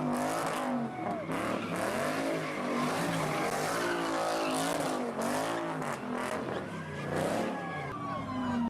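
Car engine revving up and down several times, its pitch rising and falling in swoops, with a long falling pitch near the end.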